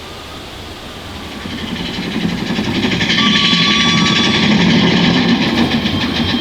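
A Big Thunder Mountain Railroad mine-train roller coaster rumbling and clattering past on its track, growing louder from about a second and a half in, at its loudest about four seconds in, then easing off.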